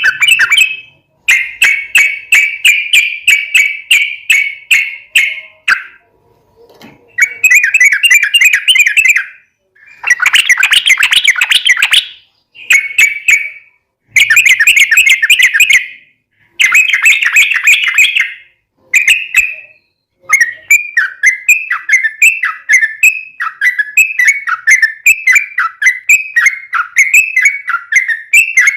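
Yellow-vented bulbul (trucuk) singing its long, rapid, chattering song in loud phrases of a few seconds separated by short pauses. Past the middle the phrases give way to an unbroken run of quick falling notes.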